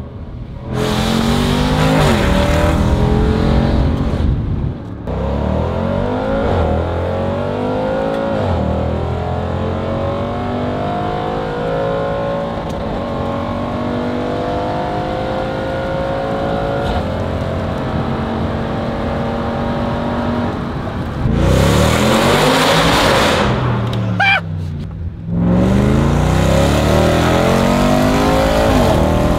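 Range Rover SVR's 5.0-litre supercharged V8 through a titanium exhaust with free-flow downpipes and resonators, heard from inside the cabin, pulling hard with a blare that rises in pitch and dips briefly at upshifts. It settles into steadier driving in the middle, then makes two more hard pulls near the end.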